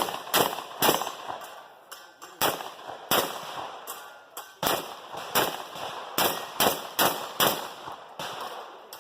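A string of about a dozen gunshots, one to two a second at uneven spacing, each a sharp report that dies away quickly.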